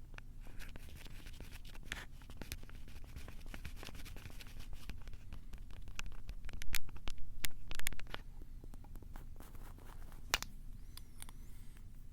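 Fingers scratching and tapping directly on a Tascam handheld recorder, right at its built-in microphones, as a string of sharp clicks and scratches over a low rumble, loudest in a dense run of scratches a little past the middle.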